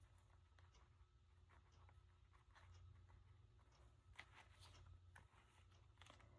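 Near silence: faint scattered ticks and rustles of paper and craft pieces being handled, over a low steady hum.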